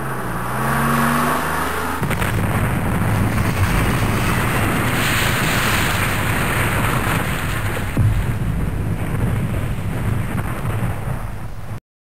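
Truck engine running as it pulls away, its pitch shifting. About two seconds in, an explosion breaks out and goes on as a long rumble, with a sharp bang about eight seconds in, before cutting off just before the end.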